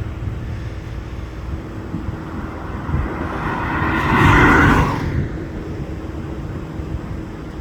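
Air Tractor AT-802A turboprop crop-dusting plane heard over a steady rumble, swelling to its loudest around four to five seconds in and then falling away.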